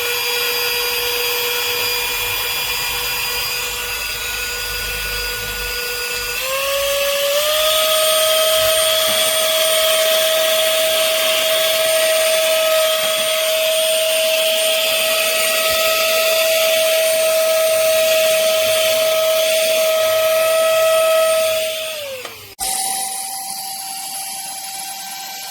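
Tiazhan cordless handheld vacuum cleaner running with a steady motor whine. About six seconds in, the pitch steps up and holds; near the end the motor winds down and stops, and a quieter, higher steady whine follows.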